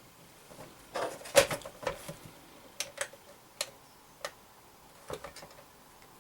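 A run of sharp, irregular clicks and taps, about nine in five seconds, around the opened Sony Blu-ray player as it is powered up.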